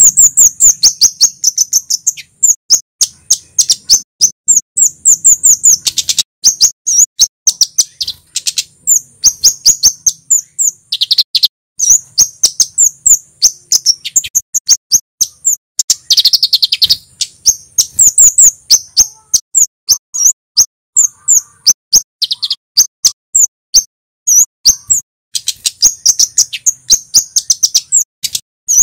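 Male kemade flowerpecker singing a fast, sharp chirping song: strings of short, high 'cit' notes repeated several times a second with brief pauses, the loud, piercing call used as a lure and tutor sound for cabe-cabean birds.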